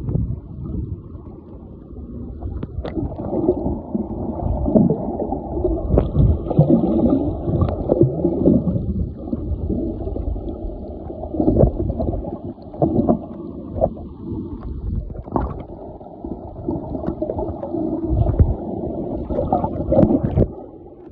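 Whale calls heard underwater: long moaning tones that glide up and down in pitch, repeating through the stretch over a rush of water noise, with a few sharp clicks.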